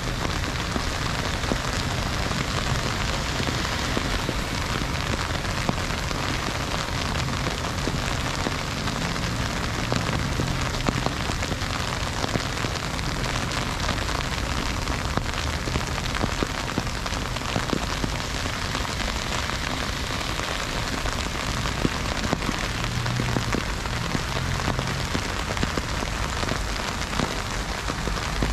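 Heavy freezing rain falling steadily, a dense hiss dotted with many sharp drop impacts, over a low rumble.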